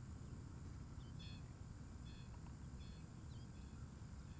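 Faint open-air background: a steady low rumble with small birds chirping, several short high notes scattered through.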